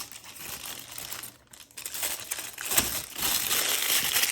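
Packaging crinkling and rustling as items are handled and put back into a small packet, pausing briefly about a second and a half in, then getting louder and denser for the last second and a half, with a light knock as it picks up.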